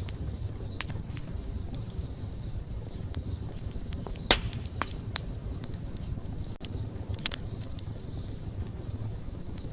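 Wood fire burning with a steady low rumble and scattered sharp pops and crackles of the burning wood, the loudest pop a little past the middle.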